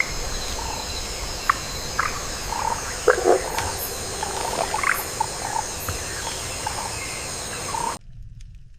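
Night-time rainforest ambience: a chorus of frogs and other creatures calling, with a steady high-pitched trill underneath and scattered short chirps and croaks over it. It cuts off abruptly near the end, leaving a faint low rumble.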